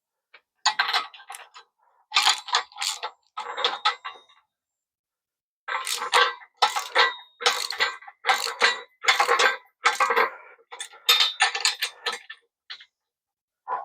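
Irregular metallic clicking and clattering of hand tools and car parts being handled and worked, in short clusters with brief pauses.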